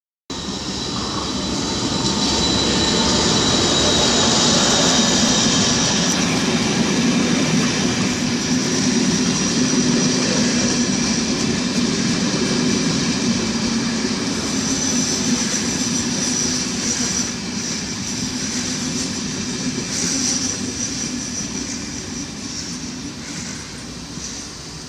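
Locomotive-hauled Irish Rail InterCity train pulling into a station, its coaches rumbling past on the rails with steady high-pitched whining tones over the rumble. The noise is loudest early on and slowly dies down as the coaches roll by.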